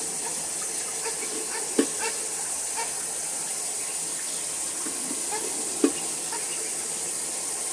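Water running steadily into a bathtub, an even hiss. Twice a short sharp sound stands out, about two seconds in and near six seconds.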